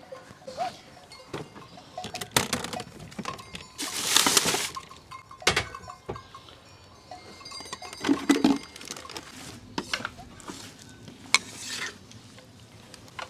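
Camp gear being handled and set down: scattered knocks, clicks and clinks, with a louder rustling scrape about four seconds in.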